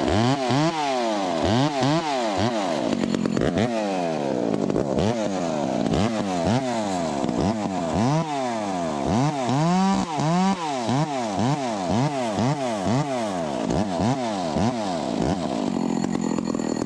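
Ported Echo 25T top-handle two-stroke chainsaw cutting through wood, its revs rising and falling about twice a second under the throttle, then running more evenly near the end as the cut finishes.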